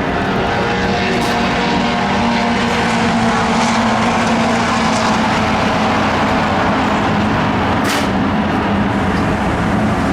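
Racing car engines running, a loud, steady drone with a few brief rises in hiss.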